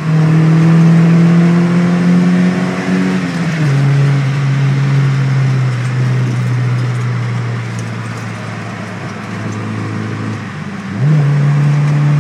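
Ford Escort cabriolet engine heard from inside the cabin, pulling hard with revs climbing, then dropping sharply a few seconds in as it shifts up a gear. The revs then sink slowly and the engine goes quieter as the car eases off. Near the end the revs jump quickly and it goes loud again as it pulls once more.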